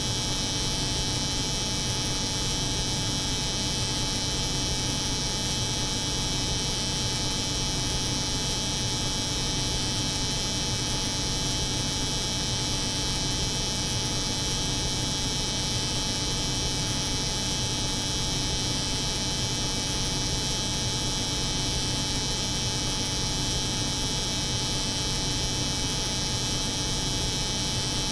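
Layered steady hum of an electric hair clipper's buzz over the drone of a cold room's refrigeration machinery, unchanging throughout.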